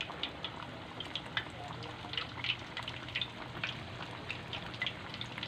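Cornstarch-coated chicken deep-frying in a pan of hot oil: a steady sizzle with frequent sharp crackling pops.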